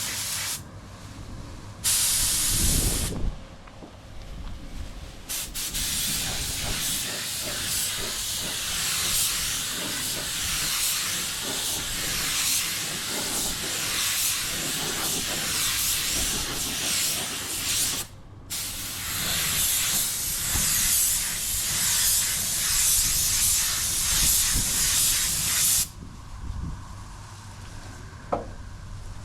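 Compressed air hissing from an air tool in a bodywork repair: one short blast, then a long steady hiss broken once briefly, stopping a few seconds before the end.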